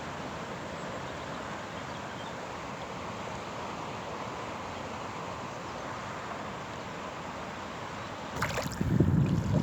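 Fast, powerful river current rushing steadily where the river pours into the sea. About eight and a half seconds in, wind starts buffeting the microphone with a louder low rumble.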